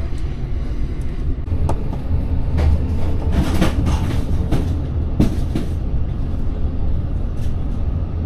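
Steady low rumble of a moving train carriage, with a handful of short knocks and clanks in the middle seconds.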